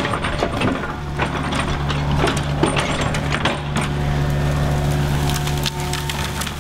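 Excavator's diesel engine running steadily under load while its bucket knocks and scrapes against a tree stump, with repeated clanks and clatters as dirt is shaken off the roots. A steady whine joins in about four seconds in.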